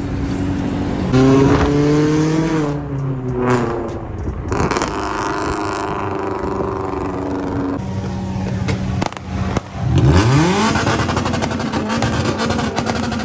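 Car engines running and revving, their pitch rising and falling, with a sharp rev that climbs quickly about ten seconds in.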